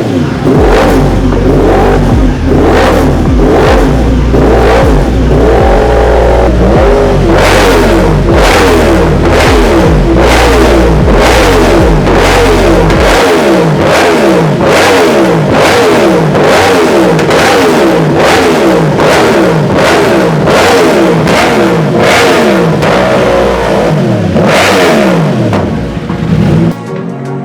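Yamaha R1M's crossplane inline-four, breathing through a full titanium Arrow competition exhaust, revved in quick blips over and over, the pitch falling back after each one.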